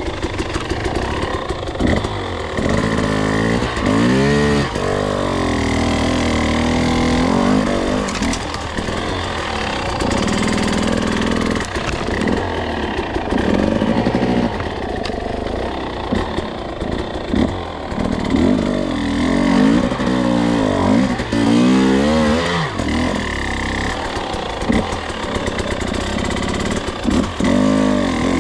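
Two-stroke enduro dirt bike engine under way, its revs rising and falling again and again as the throttle is worked.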